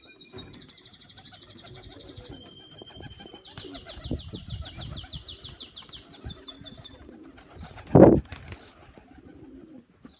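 A canary singing long, fast trills of rapidly repeated high notes, over low cooing from pigeons in the loft. About eight seconds in there is a single loud, short burst of noise.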